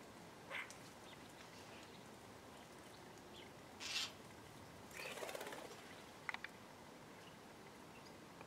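Small birds in a garden shrub: a short flurry of wingbeats about four seconds in, then a longer spell of flapping and rustling a second later, with a few faint chirps and ticks.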